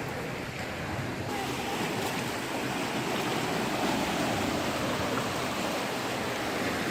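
Flood water rushing and flowing, a steady noise that grows a little fuller and brighter about a second in.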